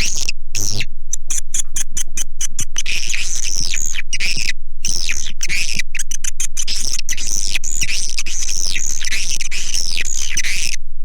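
Recorded swiftlet calls used as a lure for swiftlet houses: dense twittering chirps with quick falling sweeps, chopped by many brief gaps as if spliced or looped, over a steady low hum.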